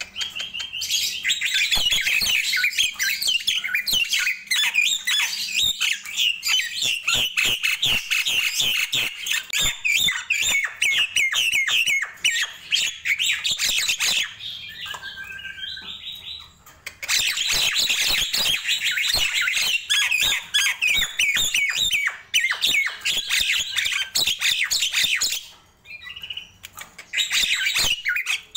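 Nias hill myna calling in a rapid stream of squawky, chattering notes, with two short pauses.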